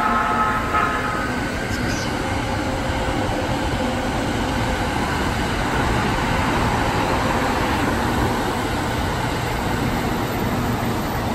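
Electric commuter train's horn, a steady chord of several tones, cutting off about a second in. Then the train runs past with steady wheel-on-rail and motor noise.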